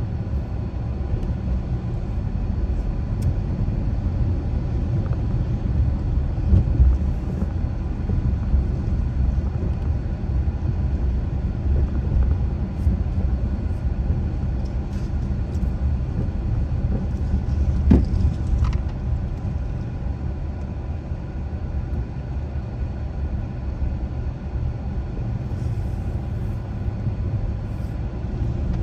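Car driving along at a steady pace: a continuous low rumble of engine and tyre road noise, with a brief sharp knock about eighteen seconds in.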